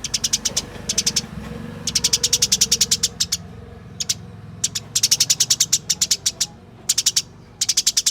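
Eurasian tree sparrows chirping in fast runs of short, sharp chirps, about ten a second, in several bursts with brief pauses between them. This is the rapid, rolling chatter of sparrows squabbling.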